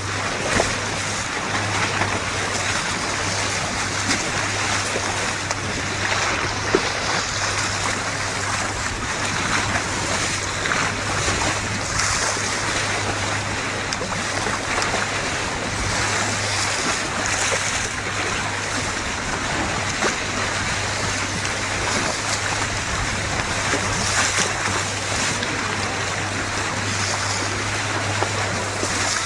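Motorboat under way: a steady low engine hum under water rushing and splashing along the hull.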